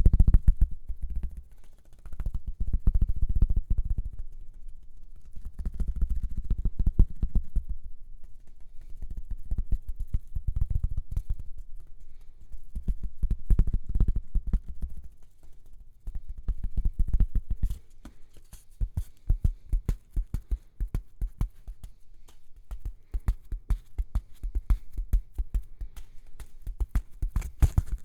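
Rapid ASMR tapping close to the microphone: many quick clicks, over a low thudding that swells and fades about every two seconds. After about 18 seconds the taps turn sharper and more spaced out.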